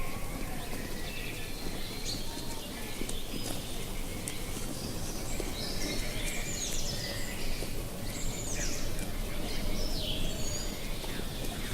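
Outdoor ambience of small birds chirping and calling in short, quick notes scattered throughout, over a steady low rush of wind.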